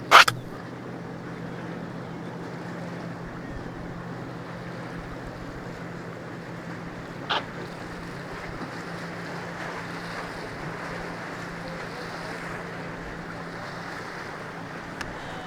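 Steady low drone of boat engines over wind and surf noise. A sharp knock just after the start is the loudest sound, and a shorter one comes about seven seconds in.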